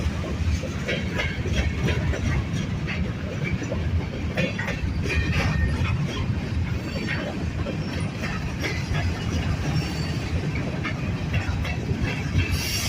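Canadian Pacific freight train rolling past: a steady low rumble with irregular clicking from wheels over the rails, and a few faint, brief wheel squeals about midway.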